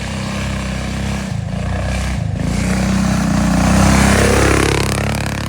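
Small minibike engine running hard as the bike rides past close by, growing louder to a peak about four seconds in, then fading and dropping in pitch as it moves away.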